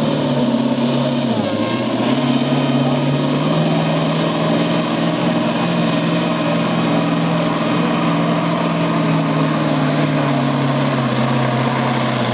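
Massey Ferguson 2805 tractor's 10.5-litre V8 diesel running at high revs under heavy load as it pulls the brake sled. The revs dip briefly about a second in, recover, and then hold steady.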